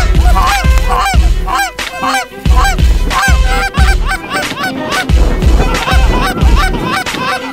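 Geese honking: many short, overlapping honks in quick succession, with repeated heavy low thumps underneath.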